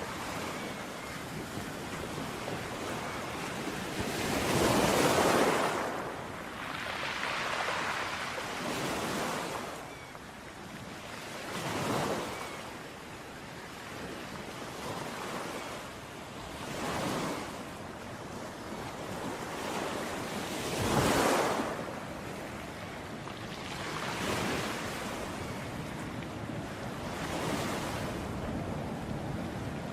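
Sea waves breaking on a beach and washing back, each wave a swelling rush every three to five seconds; the biggest breaks come about five seconds in and about twenty-one seconds in.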